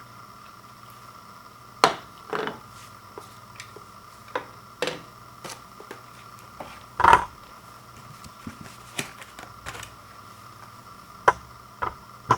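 Scattered taps, clicks and knocks of objects being handled, a dozen or so at uneven intervals with the loudest about two, seven and eleven seconds in, over a faint steady hum.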